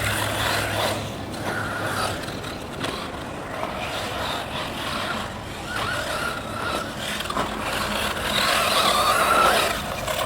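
Electric 1/8-scale RC buggy with a Tekin Redline brushless motor running laps: a motor whine that rises and falls with the throttle over tyres working on the dirt, loudest near the end.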